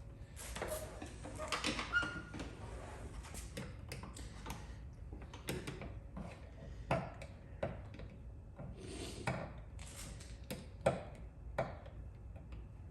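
Paintless dent repair hand tools being handled: irregular sharp clicks and knocks, about a dozen, mixed with short scrapes.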